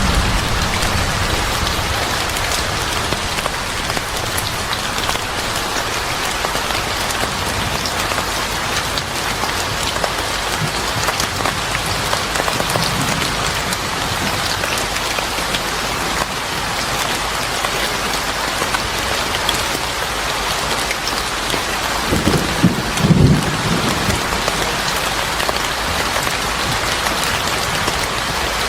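Steady heavy rain falling, a dense even patter, with a brief low rumble late on.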